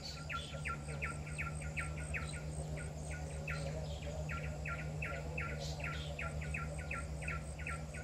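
Pin-striped tit-babbler singing, small bird, big sound: a long run of quick, evenly repeated short notes, about four or five a second, with a brief break about three seconds in.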